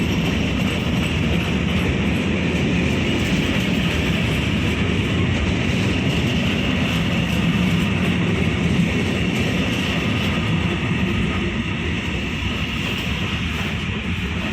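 A train passing, with a steady loud rumble of wheels on the rails that eases slightly near the end.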